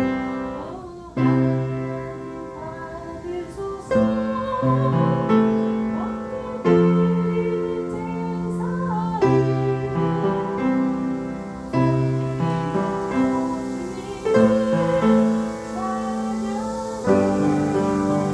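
Piano playing slow, sustained chords that change about once a second, with a faint voice singing along in places.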